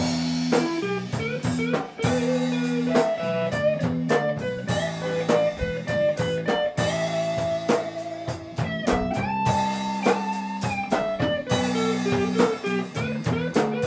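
Blues band playing an instrumental passage between sung lines: an electric guitar plays a lead line with bent notes over sustained lower notes and a drum kit.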